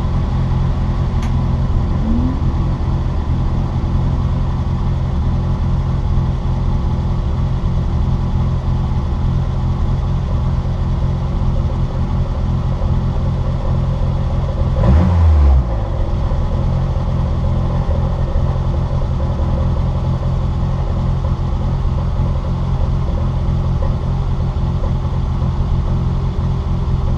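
Citroën Saxo VTR's four-cylinder engine heard from inside the cabin while racing, running at a steady pitch with road noise. About 15 seconds in comes a short, louder low thump lasting under a second.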